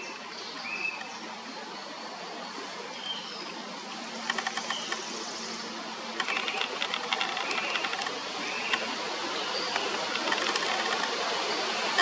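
Forest birds calling with short, repeated chirping notes over a steady background hiss. There are two bursts of rapid ticking, about four and six seconds in.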